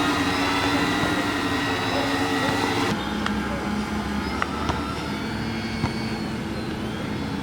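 Small electric motors and propellers of a homemade drone airplane running with a steady whine. About three seconds in the sound changes abruptly to a lower steady hum, with a few sharp clicks.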